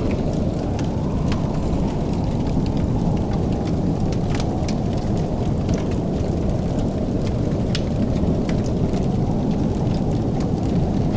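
Wood fire crackling, with scattered sharp pops and snaps over a steady deep rumble.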